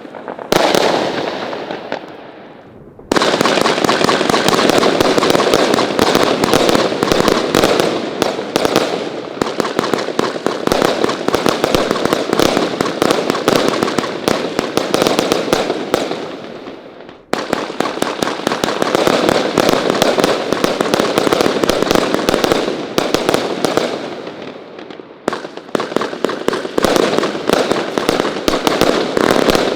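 Firework batteries firing a dense, rapid rattle of bangs and crackles. The rattle starts suddenly about three seconds in after an earlier volley dies away. It fades and starts up again abruptly just after the middle, and dips once more near the end.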